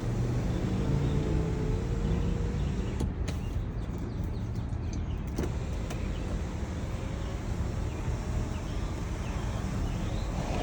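BMW X5's panoramic sunroof opening under its electric motor: a faint steady whine over a constant low hum from the car, with a couple of light clicks.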